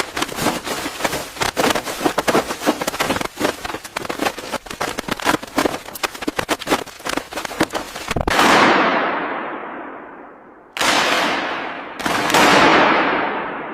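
A fast, irregular clatter of many sharp knocks and cracks, then three sudden loud hits, each dying away slowly over a couple of seconds.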